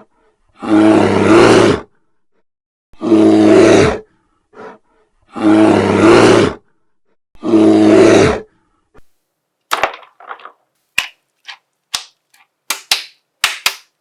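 A recorded bear roar sound effect for the polar bear figure, played four times, each about a second long and about two seconds apart. From about ten seconds in come quick sharp clicks and snaps of plastic being handled.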